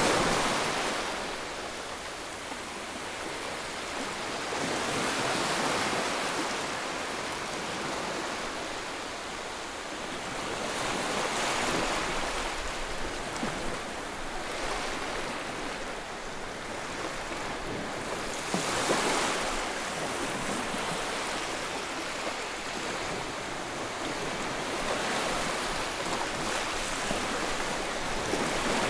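Ocean surf: waves breaking and washing in one after another, the hiss rising and falling with a new surge about every five to seven seconds.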